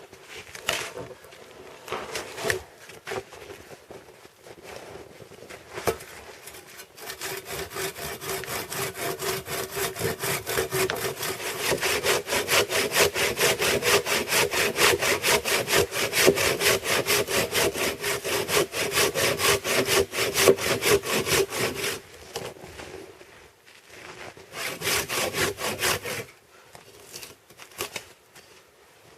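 Saw cutting through a fallen pine log: a few hesitant strokes at first, then fast, even back-and-forth strokes for a long run, a brief pause, and a short final run of strokes.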